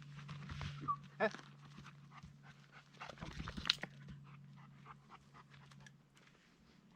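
A dog panting in short irregular breaths, with a few brief high squeaks.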